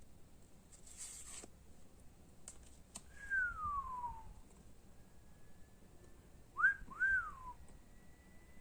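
A person whistling: one long falling note, then two short up-and-down notes near the end. A short rustle and a couple of clicks come before the whistling.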